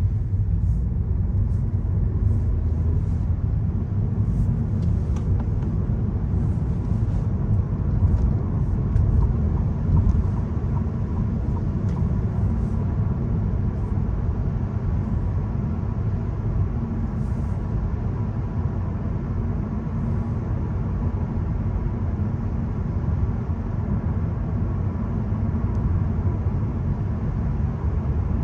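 Steady low rumble of a VW Golf 1.0 TSI being driven at an even pace on a wet road: the turbocharged three-cylinder petrol engine under light load, mixed with tyre and road noise.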